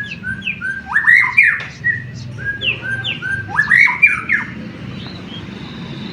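White-rumped shama singing: a string of short clear whistled notes broken by two loud bursts of fast sweeping notes, about a second in and about four seconds in, growing quieter near the end.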